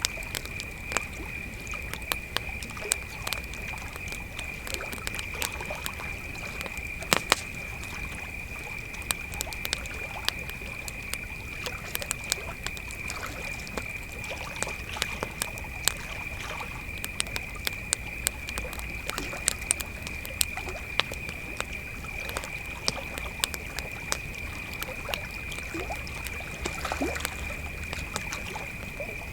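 Campfire crackling with frequent irregular sharp pops, over a steady, unbroken high-pitched chorus of crickets.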